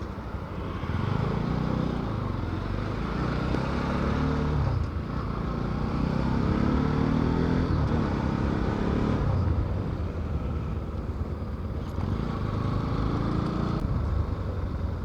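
Motorcycle engine while riding, its pitch climbing and dropping several times as it accelerates and changes gear, over a steady low rumble of wind and road noise.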